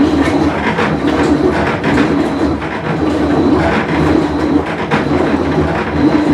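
Whirlpool Cabrio top-load washer running mid-cycle with a bad tub bearing: a loud, steady, rough mechanical noise that swells and eases about once a second.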